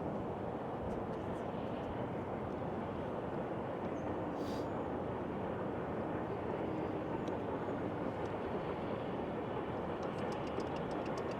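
Steady, even rumble of distant vehicles, with no distinct chuffs, whistles or impacts.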